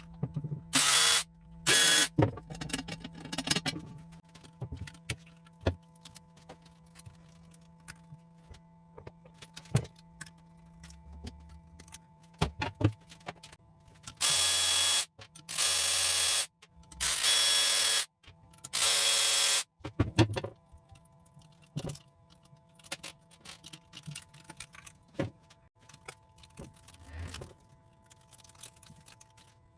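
Workshop sounds of metal tools and parts clinking and knocking, with several short loud bursts of hiss: two near the start and four close together around the middle.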